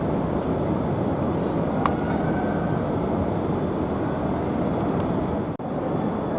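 Steady noise inside a Madrid Metro series 8000 train carriage, with a single click about two seconds in and a momentary drop-out near the end.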